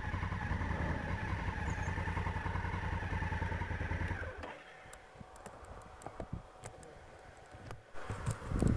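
Enduro motorcycle engine running steadily, stopping abruptly about four seconds in. Scattered light clicks and knocks follow.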